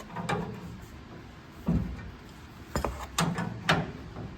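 Several separate knocks and clatters of hand work on the truck's underside, the loudest near the middle and toward the end.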